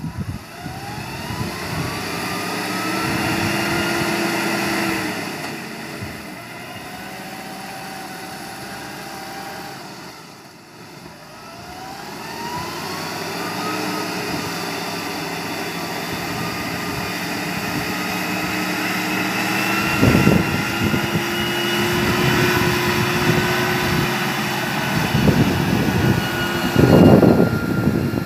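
Suzuki Gypsy 4x4's engine revving hard as it works along a muddy track, its whine rising in pitch twice and held high, with heavy rumbling bursts in the last several seconds as the vehicle draws close.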